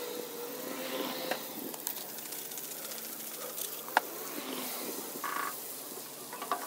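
Lamb liver and tomatoes sizzling on a large hot griddle, a steady frying hiss, with a sharp click about four seconds in.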